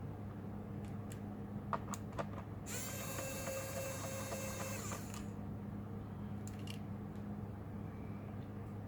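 Small clicks of tools on a laptop's plastic case, then a small electric screwdriver motor whirring at a steady pitch for about two seconds as it turns screws out.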